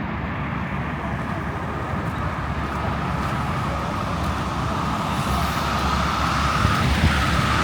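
Strong wind buffeting the camera microphone: a loud, rough rumble that slowly grows louder. About halfway through, a steady high whine joins it and gets stronger toward the end.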